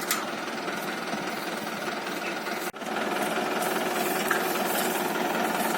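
A tractor's diesel engine runs steadily with a rough, knocking chug. It drops out briefly a little under halfway through, then carries on slightly louder.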